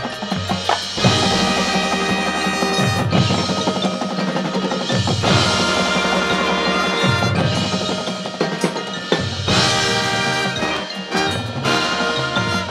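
High school marching band playing its field show: held chords with mallet percussion and drums, the bass notes changing every second or two.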